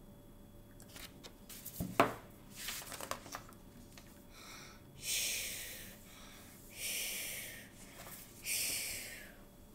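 Pretend snoring acted out by a reader: three long, breathy, hissing out-breaths about a second and a half apart, each fading away. Before them come a few handling rustles and clicks, with one sharp knock about two seconds in.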